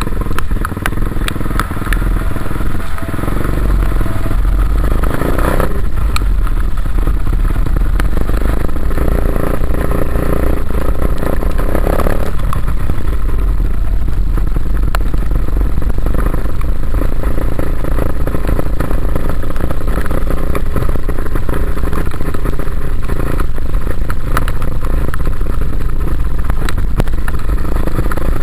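Dirt bike engine running continuously while riding, with heavy low rumble throughout.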